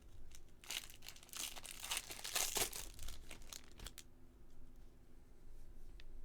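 A foil trading-card pack wrapper crinkling and tearing as it is ripped open, for about three seconds, then quieter handling with a light click near the end.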